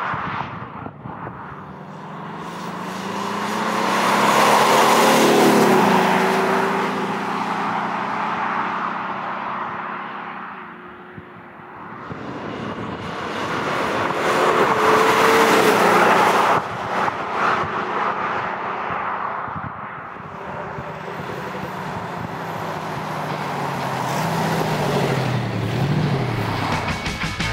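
Mercedes-Benz GLC 250 CDI four-cylinder diesel SUV driving past twice, its engine note swelling and fading with each pass. On the later pass the CETE active sound unit is switched on, adding a synthetic V8-style sound to the diesel.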